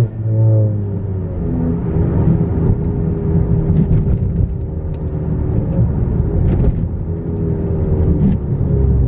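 Straight-piped exhaust of a 10th-gen Honda Accord's 1.5-litre turbocharged four-cylinder, running loud with a deep rumble; the note shifts just at the start, then holds fairly steady.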